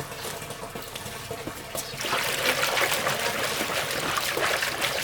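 Liquid pouring in a steady stream, which grows louder about two seconds in.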